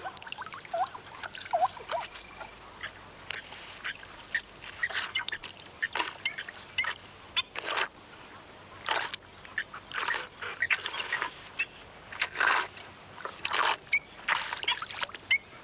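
Many birds calling: a stream of short chirping calls, joined from about five seconds in by louder, harsher bursts roughly once a second.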